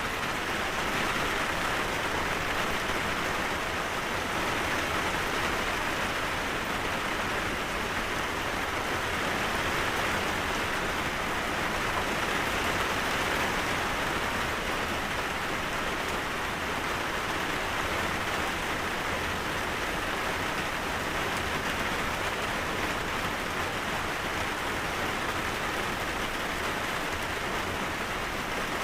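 Steady rain falling, an even hiss of drops on surfaces that holds constant.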